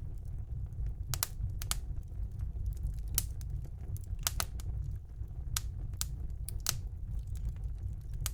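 Wood fire burning in a fireplace: a steady low rumble of the flames with irregular sharp crackles and pops, a dozen or so, some in quick pairs.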